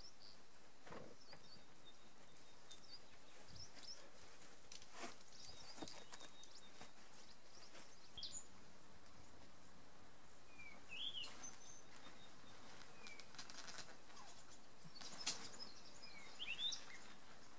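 Quiet outdoor ambience with short bird chirps now and then, and scattered faint knocks and clicks, the sharpest one near the end.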